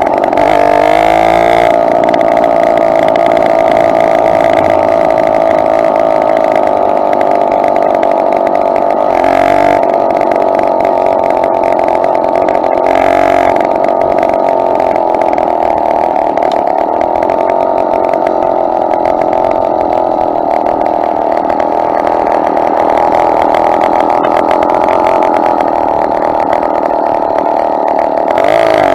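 Small two-stroke engine of a motorized bicycle running at a steady cruising speed, with its pitch rising as it speeds up about a second in and again near the end.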